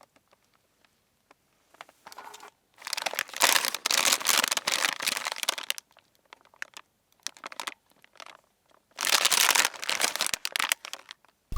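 Crinkling and crunching in two bursts, each lasting a few seconds, separated by near-silent stretches with a few faint ticks.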